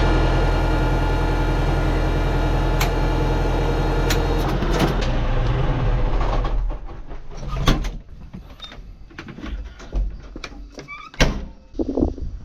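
A machine's engine or motor runs steadily, then stops about six and a half seconds in, followed by scattered knocks and clunks.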